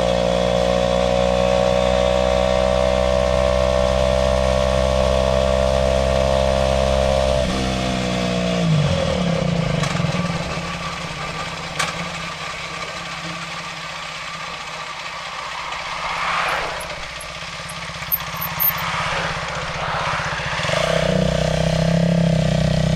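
Aprilia RS4 125 motorcycle engine running steadily under way, its pitch creeping up. About seven or eight seconds in the revs fall away into a quieter stretch with a few light knocks, and a steady engine note comes back near the end.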